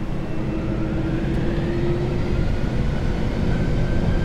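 Boeing 747-400F's jet engines spooling up as takeoff thrust is applied, heard from the cockpit: a steady low rumble growing slightly louder, with a faint whine slowly rising in pitch.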